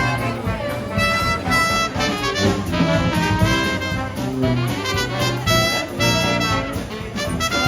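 Jazz music with brass horns playing a melody over a steady bass line.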